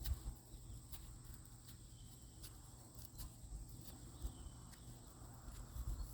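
Faint scattered clicks and rustling of sunflower seeds being rubbed and picked off a dried sunflower head by hand, with a faint steady high-pitched tone behind.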